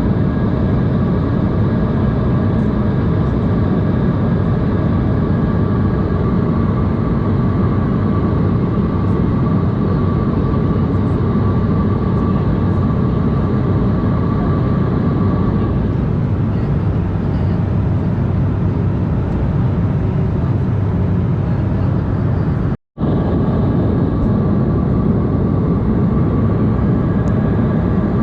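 Steady cabin noise of an Embraer E190 in cruise: a low rush of airflow and the GE CF34 turbofans, with a faint steady whine over it. The sound drops out for an instant near the end.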